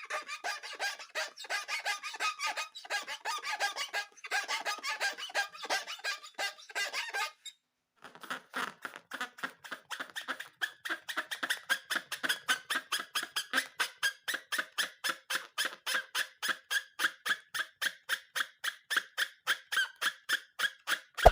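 Rubber balloons squeaking as they are rubbed and squeezed: a jumble of irregular squeaks, a brief break about seven seconds in, then a fast, even run of short squeaks, several a second.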